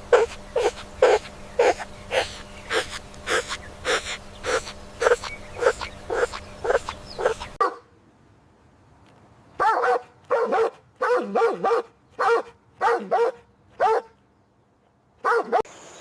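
An animal giving short, repeated barking calls, about two a second, over a steady low hum; after a pause of about two seconds, a quicker run of barks follows.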